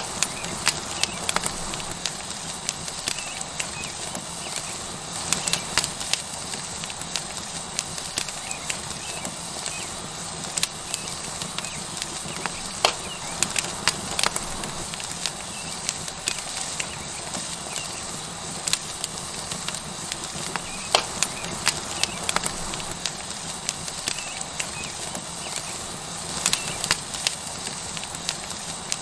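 Tomahawk steak sizzling on a hot rock over a wood fire: a steady hiss with irregular sharp crackles and pops from the burning wood.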